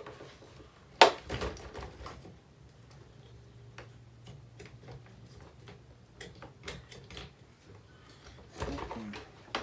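Plastic parts of a table fan being handled while it is pulled apart: a sharp snap about a second in, then scattered light clicks and rattles.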